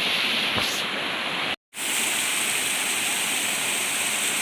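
Waterfall rushing as a steady wash of falling water, cut off by a split-second dropout about a second and a half in, then rushing on with a slightly different tone.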